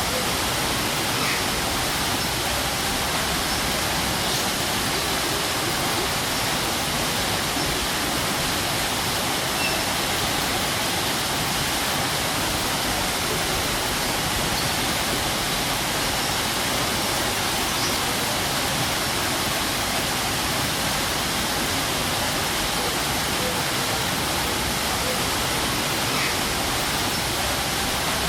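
Strong waterfall pouring: a steady, even rush of falling water.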